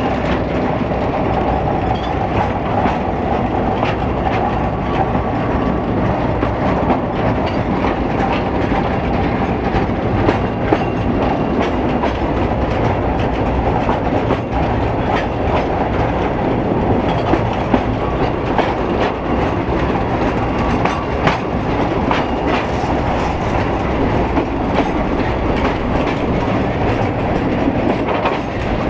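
Narrow-gauge train carriage running steadily along the line, heard from on board: a continuous rumble of wheels on rails with frequent irregular clicks and knocks from the track.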